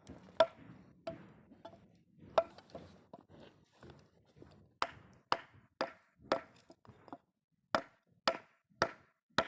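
Firewood being chopped with sharp wooden strikes. A few scattered knocks come first, then from about halfway a steady run of strikes, about two a second.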